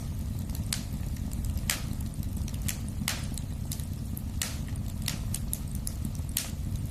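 Wood fire burning in a fireplace: sharp, irregular crackles and pops, about one or two a second, over a steady low rumble of the flames.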